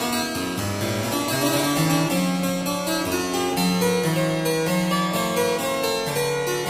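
Background music: a harpsichord playing a running melody over a moving bass line.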